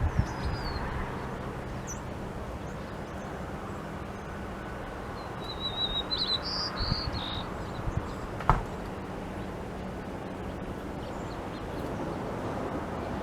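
Wild birds give a few short, high chirps and whistles: one falling whistle right at the start and a quick cluster of chirps about six seconds in. These sit over a steady outdoor background hiss. A single sharp click comes about eight and a half seconds in.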